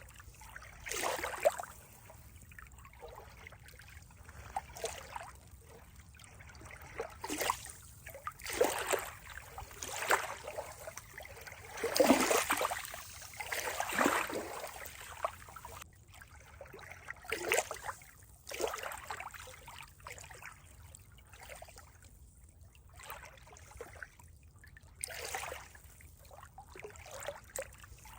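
Water trickling and gurgling in uneven surges, one every second or two, the loudest about twelve seconds in.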